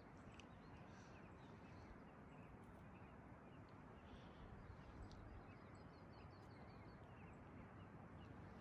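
Near silence: faint outdoor ambience with a small bird's quick runs of high chirps, heard a few times.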